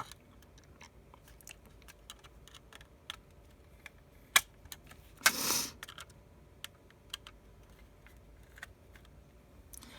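Small clicks and taps of a precision screwdriver and tools on an iPhone 6s's internal parts, as screws holding the main board are worked at. There is one sharper click about four seconds in, and a brief hiss a second later.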